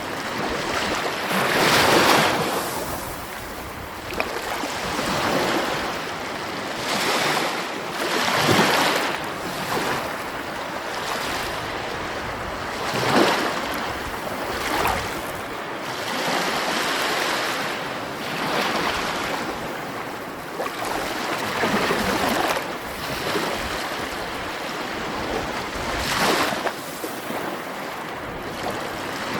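Sea waves breaking and washing in, a steady surf hiss that swells into a louder surge every few seconds.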